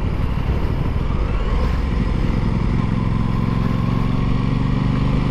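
Aprilia Tuono 660's parallel-twin engine running while the bike is ridden at a steady speed, over a steady rush of road noise; the engine note comes through clearer and holds steady from about two seconds in.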